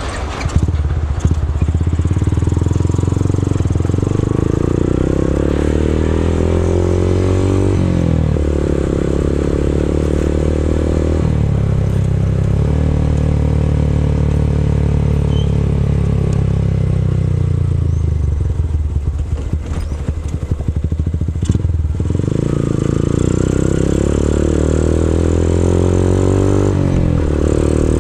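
Motorcycle engine running through an Abimanyu aftermarket exhaust, revved up and let down several times. The pitch climbs and falls in long sweeps and sags briefly about three quarters of the way through before rising again.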